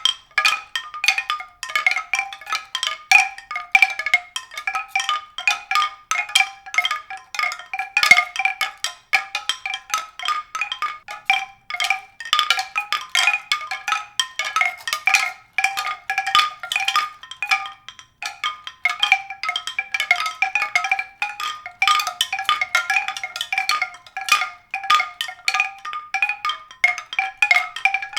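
A continuous stream of quick, high-pitched struck notes on pitched percussion, each ringing briefly, with no bass beneath.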